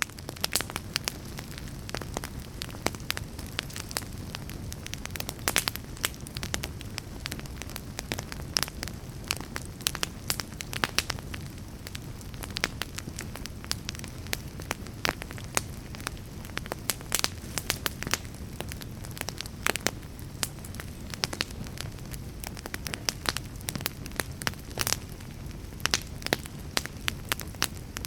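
Fire crackling: frequent irregular sharp pops and snaps over a steady low rush of burning.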